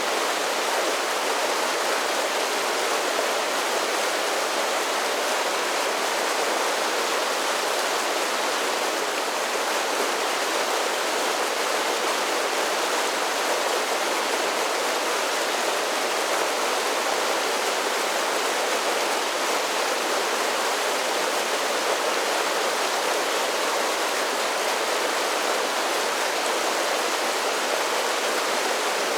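A mountain creek spilling over a series of small waterfalls, a steady, even rush of falling water.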